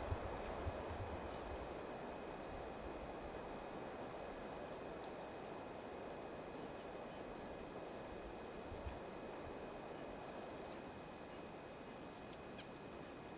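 Faint, short, high bird chirps repeating every second or so over a steady outdoor hiss.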